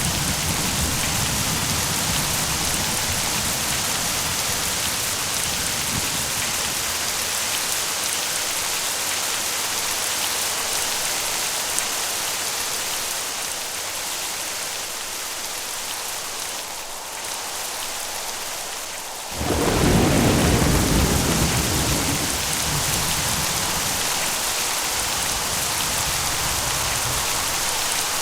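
Steady heavy rain with rolling thunder: a low rumble dies away in the first few seconds, then after a quieter stretch a sudden loud thunderclap breaks about two-thirds of the way in and rumbles off over several seconds.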